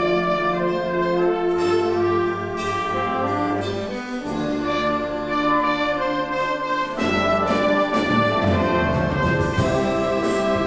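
Wind band playing, with brass to the fore: trumpets and trombones carry the melody over a moving low brass bass line, with cymbal strokes now and then.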